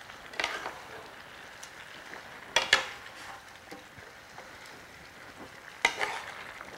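Chicken, broccoli and potatoes sizzling steadily in an electric skillet while being stirred with a silicone spatula, with three short scrapes of the spatula against the pan.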